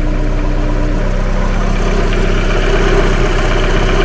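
Mazda MX-5's built, 360 bhp engine running at idle, heard from underneath the car, with a rapid tapping knock: the owner suspects a worn rod or main bearing.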